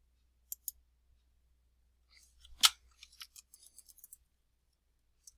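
Computer mouse double-click, then a louder click and a quick run of keyboard key taps as a field name is typed.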